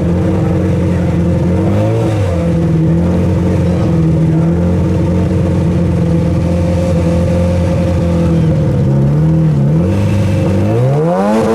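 Car engine running at steady revs, with a brief dip and rise in pitch about two seconds in and another dip near the end, then revving up sharply as the car accelerates hard at the very end.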